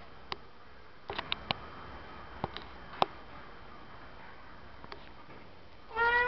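A few scattered sharp clicks and taps, a quick cluster of them about a second in and the loudest about three seconds in. Right at the end a young pet parrot's voice starts a pitched, slightly rising call.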